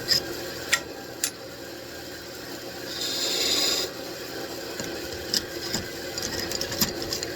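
Wood lathe running with a steady motor hum and a few light clicks. About three seconds in, a turning tool scrapes against the spinning mahogany with a hissing rasp for about a second.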